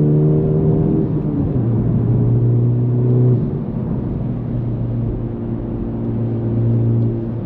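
Honda Civic Type R FL5's turbocharged 2.0-litre four-cylinder engine running through an AWE Touring exhaust while driving, heard from inside the cabin. The engine note climbs slightly, drops in pitch about a second in, then holds a fairly steady note.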